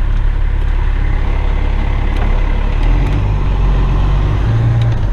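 Diesel engine of a Western Star tipper truck running with a steady low rumble; about three seconds in the engine note rises as the truck moves off.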